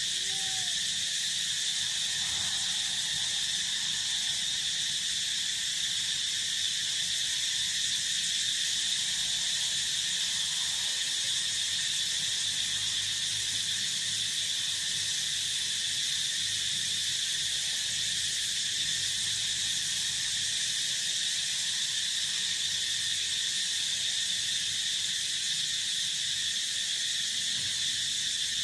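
Steady, unbroken chorus of field insects, a dense high-pitched shrill that holds level throughout.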